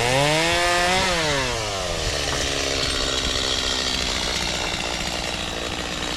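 Chainsaw running: its engine speed drops and picks up again in the first two seconds, then it runs at a steady speed.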